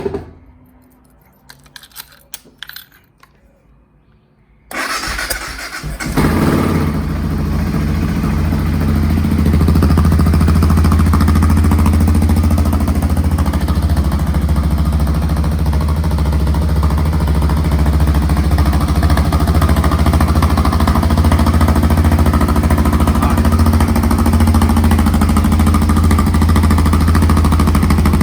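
2002 BMW F650GS single-cylinder engine, breathing through a new Dominator aftermarket exhaust with its 7 dB restrictor fitted, starts up after a few faint clicks about five seconds in, then idles steadily and loudly.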